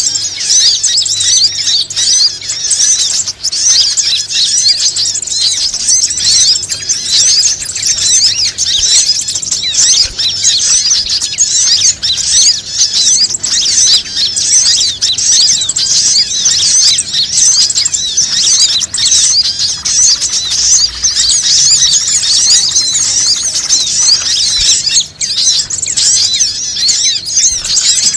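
Bird-lure recording: a dense, continuous chorus of high, rapid chirps and squeaky calls, loud and unbroken throughout.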